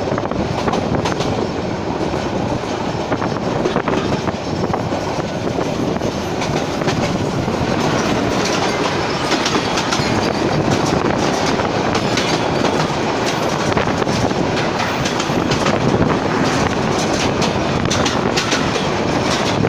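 Passenger train running along the track: a steady rumble and rush with wheels clattering over the rail joints, growing a little louder and with more frequent clacks about eight seconds in.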